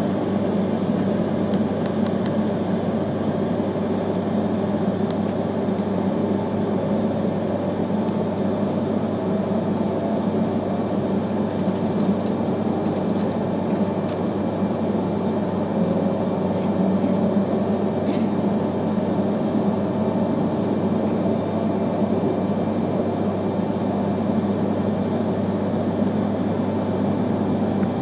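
Interior running noise of an E3 series Akita Shinkansen train pulling out of a station and gathering speed: a steady low hum with the rumble of the wheels on the track, heard inside the passenger cabin.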